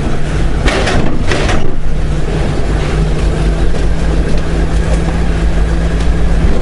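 Honda Gold Wing's flat-six engine running at low speed with a steady hum and a constant low rumble. Two brief hissing bursts come about a second in.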